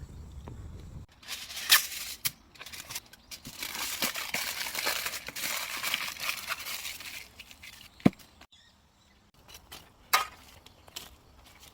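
Crinkling and scraping with a few sharp cracks while roasting sweet potatoes are handled in a wood fire, the crinkling densest from about three to seven seconds in, with a single loud knock about eight seconds in.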